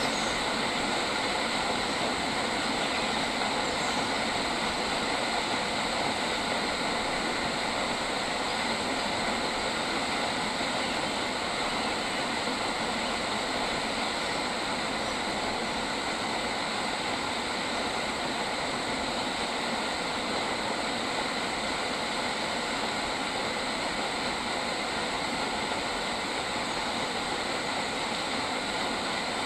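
Steady, unbroken outdoor nature ambience: a dense hiss with several steady high tones running on without change.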